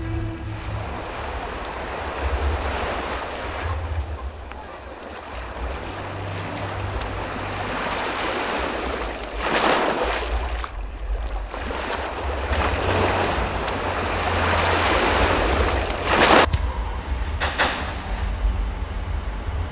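A loud rushing noise over a deep rumble, swelling and easing, like surf or wind, with a few short louder surges near the middle and near the end.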